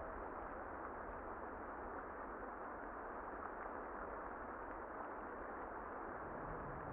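Steady muffled rain noise with the highs cut off, over a faint low rumble.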